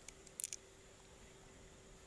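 A few short, sharp clicks of mussel shell being handled, bunched together about half a second in, over a faint steady hum.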